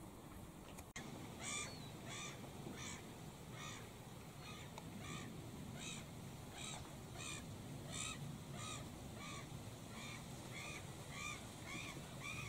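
A bird calling over and over, a short nasal call repeated about one and a half times a second, starting just after a click about a second in.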